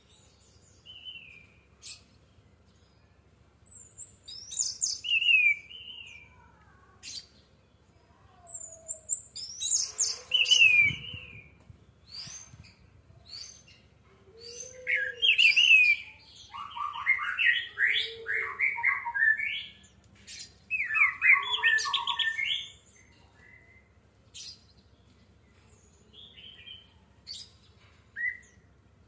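Orange-headed thrush (anis merah) singing: short bursts of quick, varied phrases of gliding notes with pauses between them, and a fuller, longer run of phrases in the second half.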